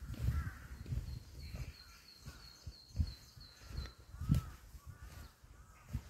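Wild birds calling: short arching calls repeated a few times, and a rapid string of high, thin notes through the middle. Low thumps and rumble from walking and handling the phone run underneath, loudest about three and four seconds in.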